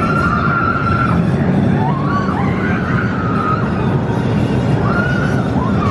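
Vekoma SLC inverted roller coaster train running, a steady heavy rumble and rush of air, with several drawn-out riders' screams held or rising over it.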